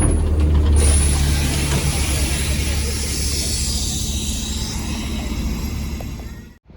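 Bus diesel engine idling with a steady low hum. About a second in, a long hiss of released compressed air starts and fades away over several seconds.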